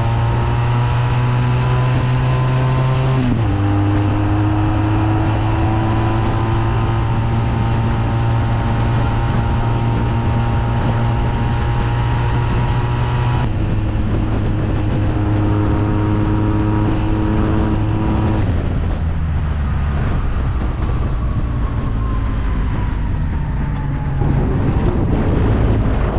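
Sport motorcycle engine pulling under way with wind noise. Its note climbs slowly through each gear, with gear changes a few seconds in, about halfway and about two-thirds through. Near the end the note falls away as the bike slows.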